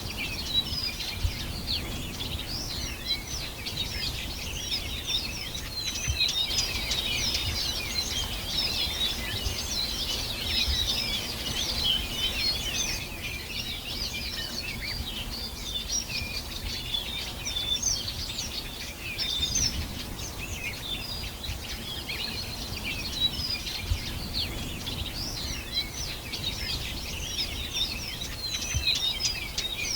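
Dense chorus of many small birds chirping and twittering at once, a constant overlapping mass of short high chirps, over a faint low rumble.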